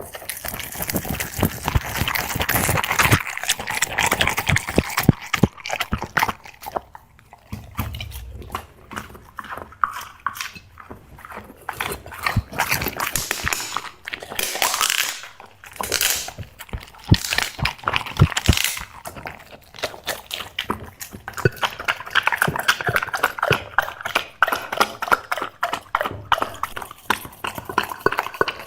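Black Labrador chewing and crunching dry seafood snacks: a dense, irregular run of crunches, smacks and clicks from its jaws and teeth.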